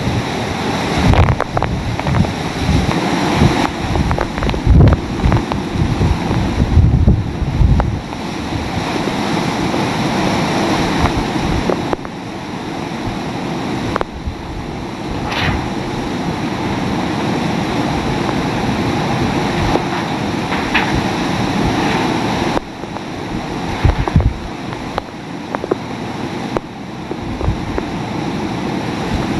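Hurricane winds blowing hard, buffeting the microphone in heavy gusts for the first several seconds, then a steadier rush of wind.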